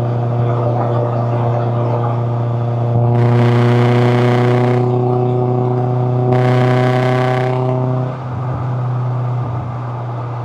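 Toyota AE86 Levin's 4A-GE twin-cam four-cylinder engine running at a steady speed under load, with two stretches of louder rushing hiss over the drone. A little after two thirds of the way through the throttle eases off and the engine note thins to a lower, plainer drone.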